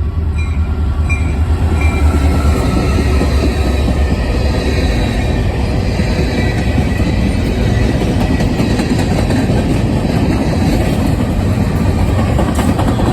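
Freight train passing close by: a loud, steady rumble of locomotive engines and rolling wheels on the rails.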